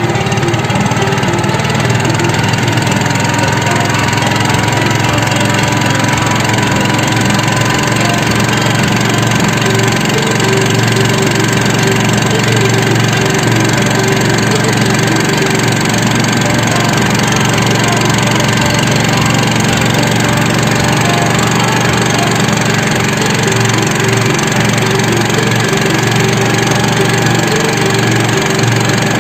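A small engine running steadily at a constant load, with a slight rise in pitch over the first several seconds.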